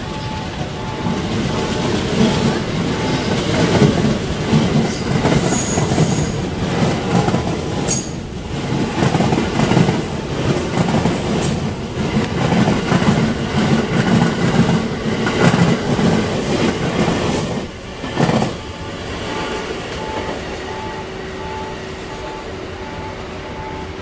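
Thunderbird limited express electric multiple unit departing and rolling past, its wheels clacking over rail joints with a few brief high wheel squeals. The noise drops off sharply about three-quarters through as the last car goes by.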